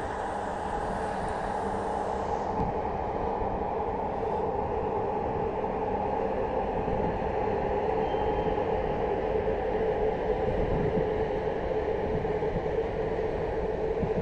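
A freight train of covered sliding-wall wagons rolls past on the rails behind an electric locomotive. It makes a steady rumble of wheels on track that slowly grows louder.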